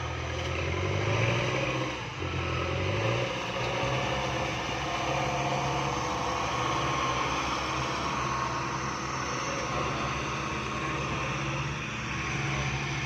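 A motor vehicle's engine running steadily, its pitch rising briefly in the first few seconds before settling.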